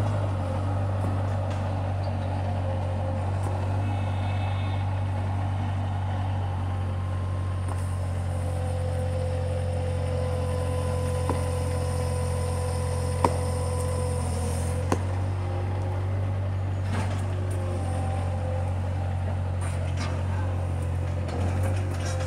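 Bobcat skid-steer loader's engine running steadily under work. A steady whine comes in for several seconds in the middle, and a few sharp knocks are heard around then.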